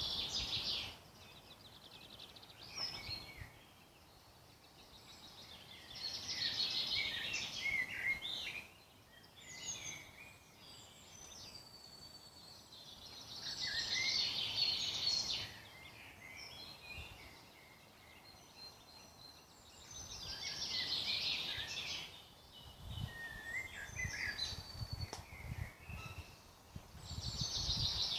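Woodland songbird singing in repeated phrases of about two seconds each, coming back roughly every seven seconds, with shorter calls from other birds in between.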